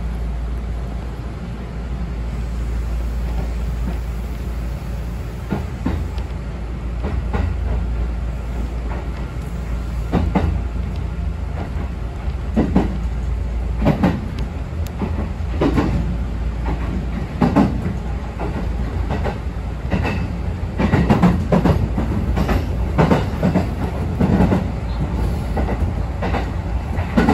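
Kintetsu express train running on the rails, heard from on board: a steady low rumble with the wheels clacking over rail joints. The clacks grow louder and come more often from about ten seconds in.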